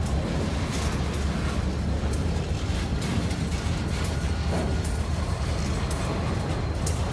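Slow freight train passing: lumber-loaded centerbeam flatcars rumbling and clicking over the rails, over the low steady drone of a Housatonic Railroad diesel locomotive's engine drawing alongside. A faint steady high whine runs through it.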